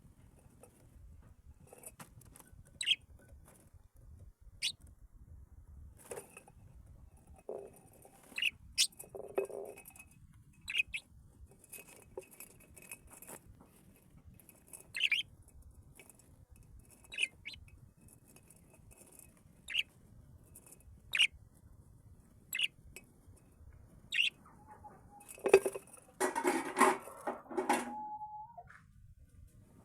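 Birds calling in short, sharp chirps, one every second or two, with a louder, lower jumble of sound near the end.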